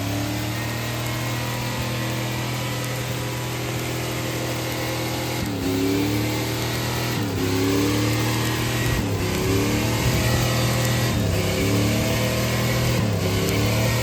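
A car engine running steadily, then revving repeatedly from about five seconds in: the pitch climbs and falls back every second and a half to two seconds.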